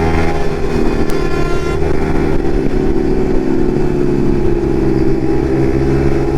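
Yamaha MT-15's single-cylinder engine running through an aftermarket Akrapovic exhaust while riding, a steady exhaust note with small rises and falls in pitch.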